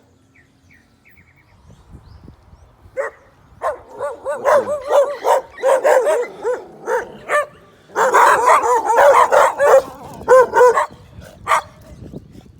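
A dog barking over and over in quick runs of short barks, starting about three seconds in and loudest in a long unbroken run near the end.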